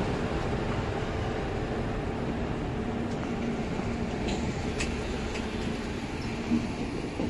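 Coaches of a departing LHB passenger train rolling slowly past along the platform: a steady low rumble with a faint hum, a few light clicks near the middle and one knock near the end.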